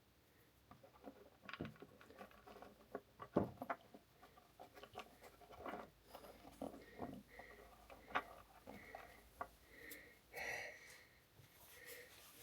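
Irregular clicks and knocks of tools and small metal parts being handled, with short high squeaks in the second half.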